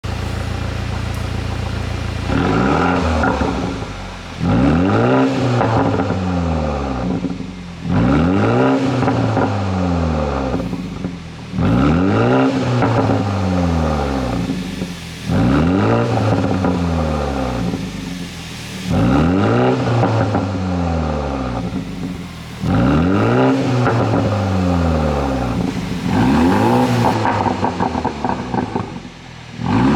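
BMW G20 330i's turbocharged 2.0-litre four-cylinder idling, then blipped about eight times in a steady rhythm, each rev rising sharply and falling back. Crackles and pops sound as the revs fall on each overrun, from a pop-and-burble exhaust tune.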